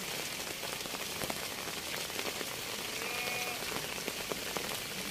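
Rain falling steadily on melon leaves and plastic mulch, with many separate drop ticks.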